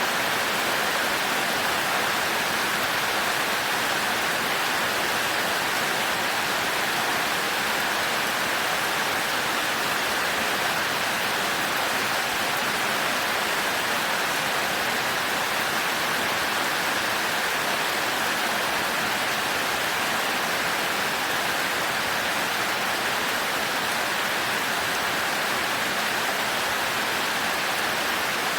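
Heavy rain falling steadily on a thatched roof: an even, unbroken hiss with no thunder.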